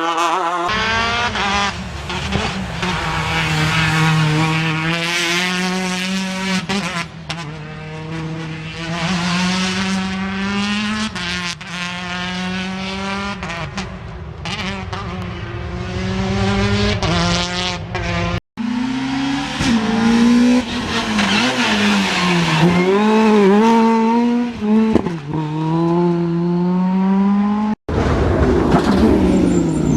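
Rally cars' engines at full throttle on a special stage, revs climbing and dropping again and again through gear changes and braking. The sound breaks off abruptly twice, about two-thirds of the way through and near the end, as it cuts to another car.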